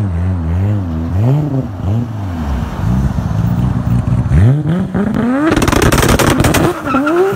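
Performance car engine revving up and down in waves. About four and a half seconds in it accelerates hard, the pitch climbing steeply into a loud, rough full-throttle stretch. Near the end it drops and starts climbing again, as after a gear change.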